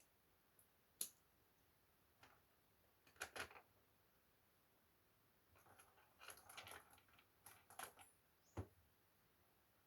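Faint clicks, taps and small plastic rattles of a laptop being worked on by hand during a keyboard replacement, with a sharp click about a second in, a busier run of clicking in the second half and a dull knock near the end.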